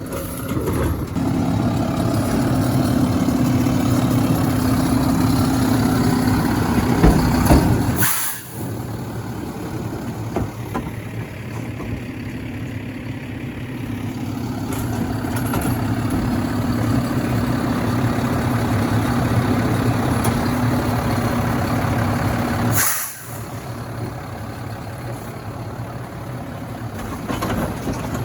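Garbage truck engine running steadily, growing louder over several seconds and then dropping off sharply, twice. Each drop comes with a brief sharp burst of hiss.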